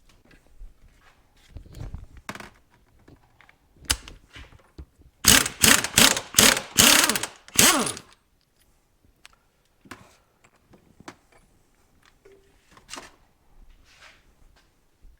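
Impact wrench run in about six short, loud bursts, starting about five seconds in, loosening a bolt on a motorcycle front fork. Scattered tool clicks and knocks come before and after.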